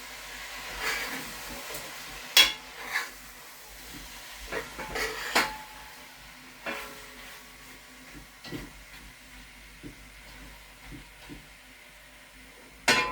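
A spoon clinking and scraping against a cooking pot as a stew is stirred: scattered sharp knocks that come less often toward the end.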